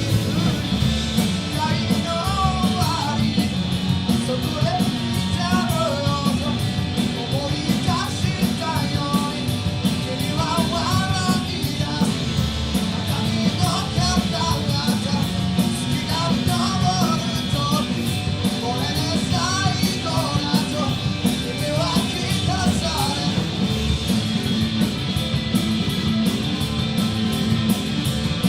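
Live rock band playing with a singer: electric guitars, bass and drums under a sung lead vocal line, in a punk-rock style.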